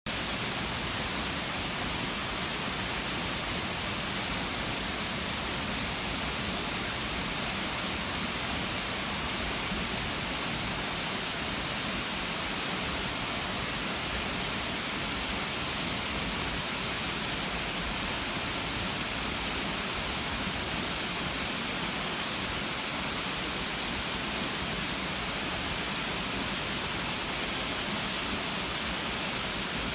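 Waterfall: falling water making a steady, unbroken hissing rush.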